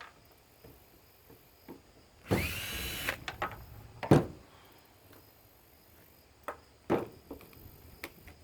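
Cordless drill spinning once for just under a second, about two seconds in, its motor whine rising in pitch and then holding steady, as screws are backed out of an electric lawn mower motor. A few sharp knocks and clinks of metal parts follow.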